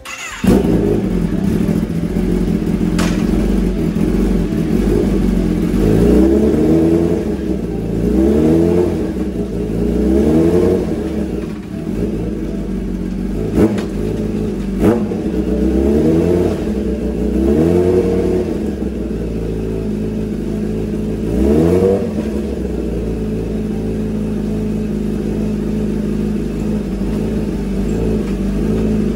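2015 Kawasaki ZX10R's inline-four engine running on a paddock stand, revved in a series of rising sweeps about one every two seconds while the gear shifting of newly fitted race rearsets is tested. A few sharp clicks come in among the revs, and the engine settles to a steady run for the last several seconds.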